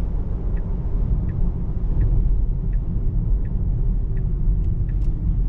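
Steady low road and tyre rumble inside a Tesla Model 3's cabin on wet pavement, with the turn signal ticking about once every 0.7 s.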